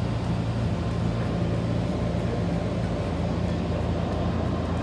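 Steady hum and rumble inside the driver's cab of a Sanyo Electric Railway train, even throughout with no clicks or knocks.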